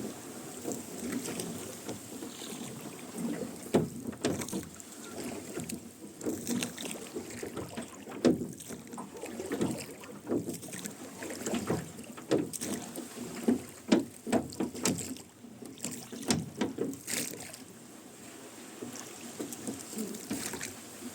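Rowboat oars dipping and pulling through the water with creaking oarlocks, in a run of repeated strokes that eases off over the last few seconds.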